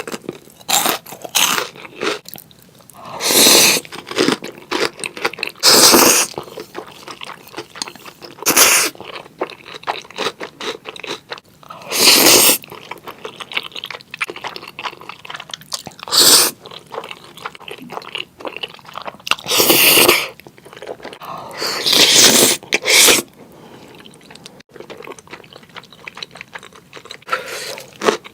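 Close-miked eating of spicy noodles and grilled chicken: steady chewing and crunching of small wet clicks, broken every few seconds by a louder bite lasting about half a second to a second.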